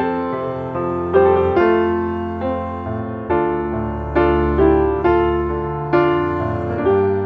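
Background music played on a piano: slow chords and melody notes struck and left to fade, about one a second.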